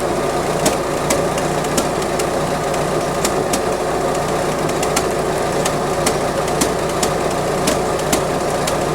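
GM Iron Duke 2.5L four-cylinder pushrod engine idling steadily, with sharp ticks at irregular intervals. The engine has a slight intermittent misfire, which the owner puts down to an old distributor cap arcing inside.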